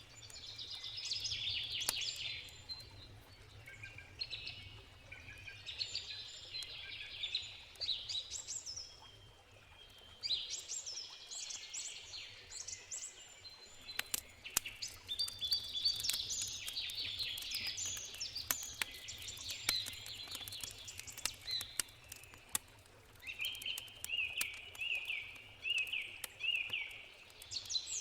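Several songbirds singing in overlapping phrases, over a wood campfire crackling in sharp pops. Near the end one bird repeats a short note about six times.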